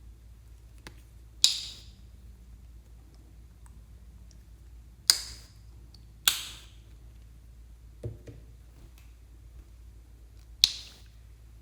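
Slime being pressed and worked by hand, giving four sharp pops spaced a few seconds apart, with a softer thump about eight seconds in.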